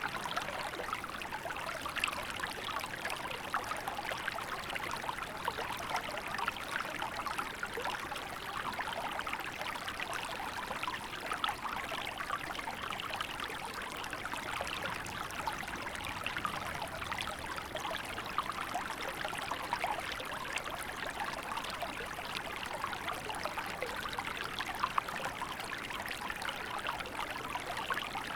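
Small river flowing steadily, its water babbling and trickling with a constant rushing hiss.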